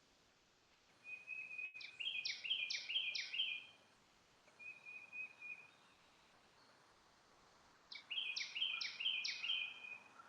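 A songbird singing two phrases several seconds apart, each a thin high note followed by a quick run of stepped notes, with a short softer call between them.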